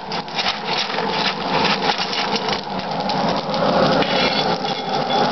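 Anthracite coal forge fire under forced air from the blower: a steady hiss with a dense crackle of many small clicks, like rain, as the freshly added coal takes the heat.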